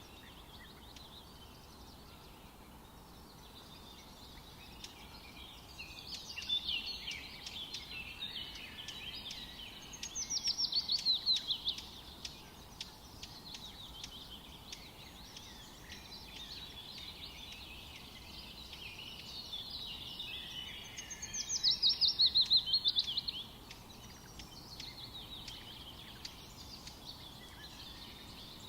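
Songbirds singing in a forest, with twittering going on throughout. Twice, about ten seconds apart, one bird sings a loud, rapid trill whose notes fall in pitch, the loudest sound here.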